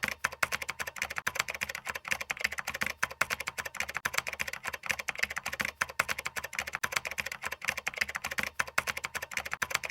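Rapid, uneven clicking of computer-keyboard typing, a continuous run of sharp key clicks laid in as an edited sound effect.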